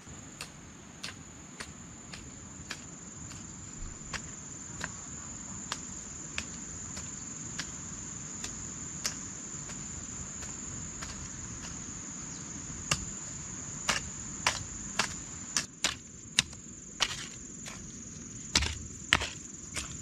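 Steady high trill of insects, with a run of sharp chopping strikes from a hand tool. The strikes are faint and evenly spaced, about two a second, then grow louder and less regular past the middle.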